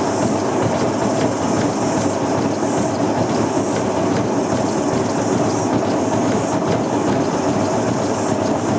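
Old top-loader washing machine spinning a deliberately unbalanced load of lead-acid batteries, with a steady, loud mechanical rattle and clatter from the drum and its noisy bearings.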